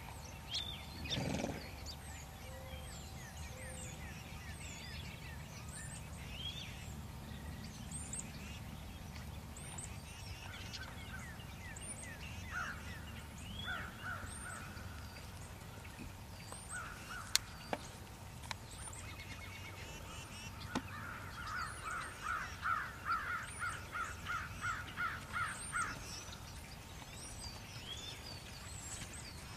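Outdoor birds calling, with faint high chirps repeating throughout and a quick run of about a dozen repeated calls, roughly two a second, lasting about five seconds from around twenty seconds in. A single sharp click comes a little past halfway, and a soft knock near the start.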